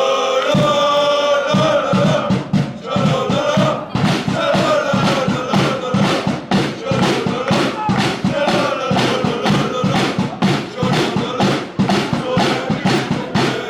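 A group of football supporters chanting a song together, with a drum beating a steady rhythm underneath.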